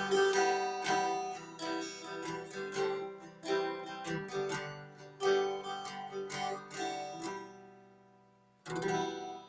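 Acoustic guitar music, picked notes played steadily and dying away about seven seconds in, then a single last strummed chord near the end that rings out.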